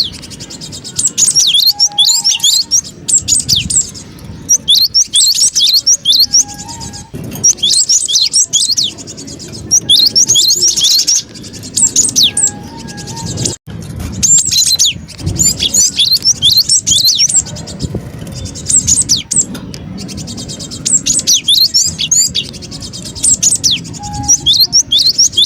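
Cinereous tit (gelatik batu) chattering excitedly: loud clusters of quick, sharp, high chirps, each cluster lasting about a second and repeating after short gaps. This is the agitated call used as a bird lure.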